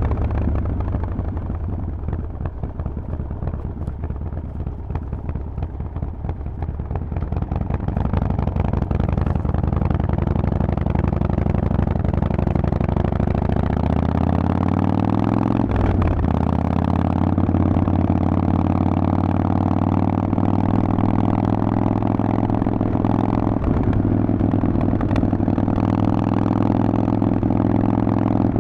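Harley-Davidson Forty-Eight's air-cooled Sportster V-twin through a Vance & Hines exhaust on the move: running at low revs at first, then rising in pitch as it pulls, with a brief break about halfway through, then holding steady at a higher pitch.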